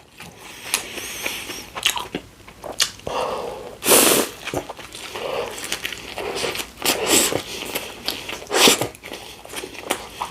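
Close-miked biting and chewing of a Subway sub sandwich: irregular wet mouth clicks and crunches, with a louder bite about four seconds in and another near the end.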